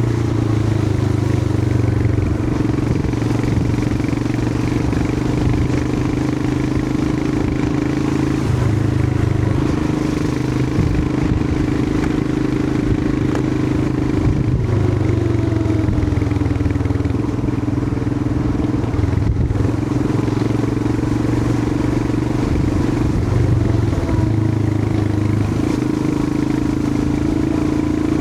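Royal Enfield Himalayan 411's single-cylinder engine running under way. Its note steps up and down several times with changes of throttle and gear.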